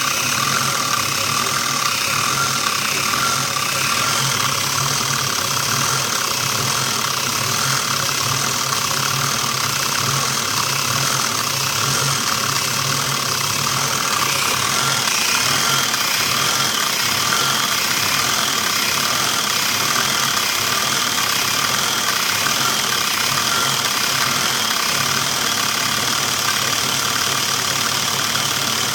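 Small-block Chevy 350 (5.7 L) V8 running steadily in a van with no catalytic converter. The owner is chasing a surge in it that he suspects comes from a bad fuel injector.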